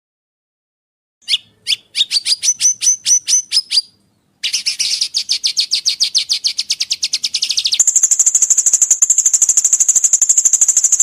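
Songbird song used as training material for caged songbirds. After a short pause it gives a run of about ten quick upward-sweeping chirps, then a fast rasping trill, then a very high, thin, rapid trill.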